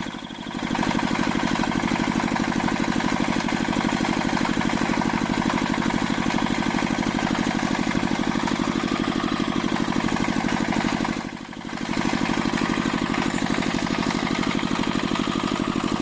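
An engine running steadily with an even, fast pulse, dipping briefly just after the start and again about eleven seconds in.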